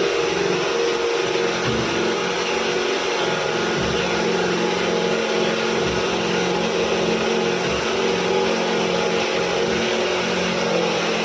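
A steady mechanical drone of constant pitch: a motor or machine running continuously with a hum over a noisy hiss.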